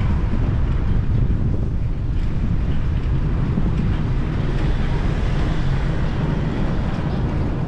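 Wind buffeting the microphone on a moving bicycle: a steady low rumble of wind noise.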